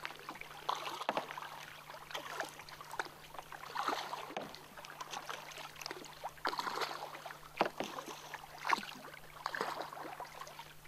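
Kayak paddles dipping and splashing in water, a stroke about every second. A faint steady low hum runs underneath.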